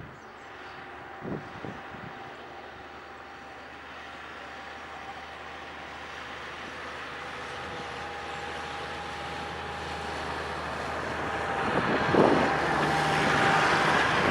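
ATR 72-600 turboprop airliner on approach, its Pratt & Whitney PW127 engines and propellers running with a steady tone that grows louder as it nears. Wind gusts hit the microphone about a second in and again near the end.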